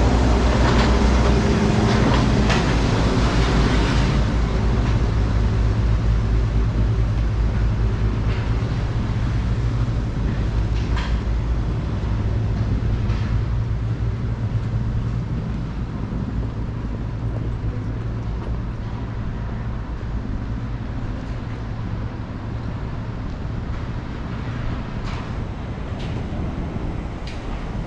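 Steady low rumble of passing vehicles, with scattered clicks early on, fading slowly over the stretch.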